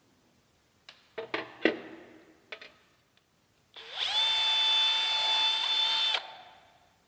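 A few metallic clanks as parts are handled, then a cordless power tool's motor spins up, runs steadily at a high pitch for about two seconds, and cuts off.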